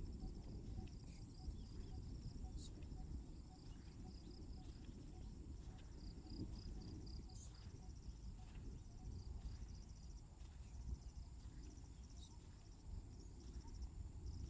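Crickets and other insects trilling in the countryside: rapid pulsed trills and a steady high-pitched drone over a low background rumble.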